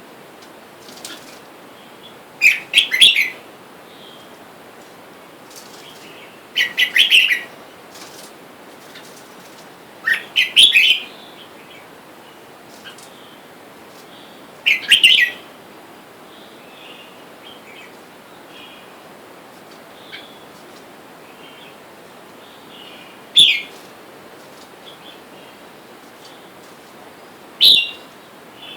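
Red-whiskered bulbuls calling: short, loud phrases of a few quick chirpy notes, about every four seconds in the first half, then two single calls later on, with fainter calls in between.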